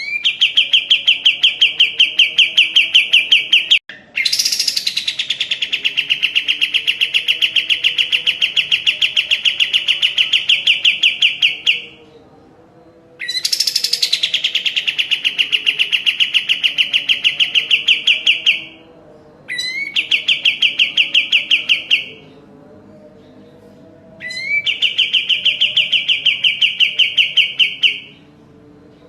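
A kapas tembak songbird sings five long, loud trills of fast repeated notes, about ten a second, with short pauses between them. Some trills open with a short rising or falling note. This is the rapid-fire 'gacor' song that masteran recordings are made of.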